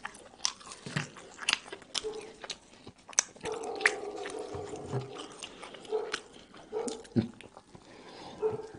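Close-miked chewing of hawawshi, Egyptian meat-stuffed bread with a crisp baked crust: crunchy bites and wet mouth clicks, with a steady hummed "mmm" for about two seconds in the middle.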